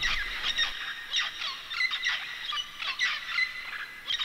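A pair of Mealy Parrots calling in a rapid run of short, harsh squawks, several a second, that echo off the walls of a deep sinkhole.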